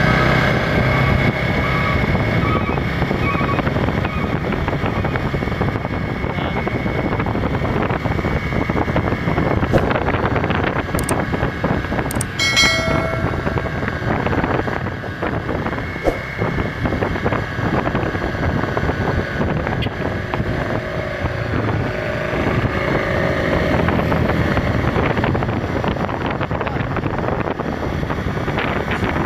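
Road vehicle noise: engines and tyres running steadily, with wind buffeting the microphone. A short tonal sound, like a horn, comes about halfway through.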